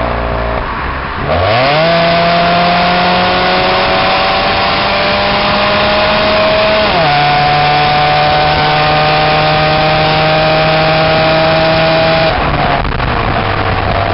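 Pontiac Grand Am Ecotec four-cylinder exhaust, straight through with no catalytic converter or resonator, pulling hard under acceleration. The revs jump up, then climb steadily, drop sharply about seven seconds in as at a gear change, climb again, and fall away near the end as the throttle is released.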